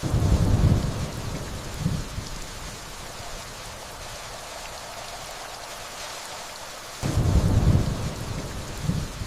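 Steady rainfall with two low rolls of distant thunder. The first comes at the start and the second about seven seconds in, each swelling again more weakly about two seconds later.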